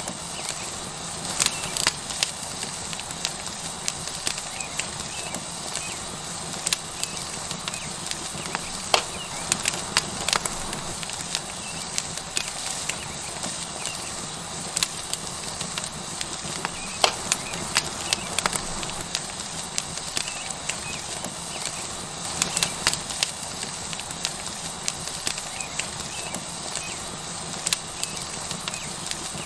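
Tomahawk steak sizzling on a hot stone over a wood fire: a steady hiss with irregular sharp crackles and pops from the burning wood.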